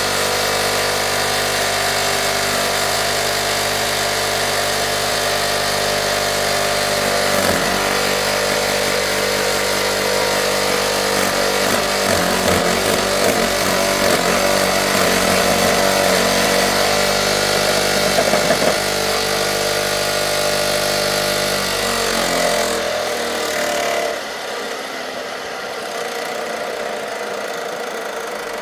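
An engine running steadily at an even speed, a little louder for a while in the middle, then stopping about 23 seconds in.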